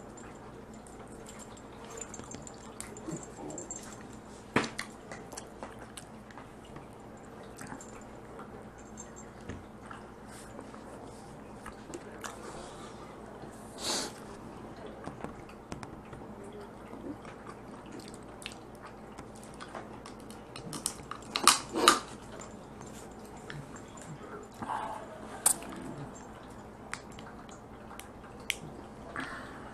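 Person eating Dungeness crab close to the microphone: chewing, with scattered sharp cracks and clicks; the loudest are a close pair a little past the middle.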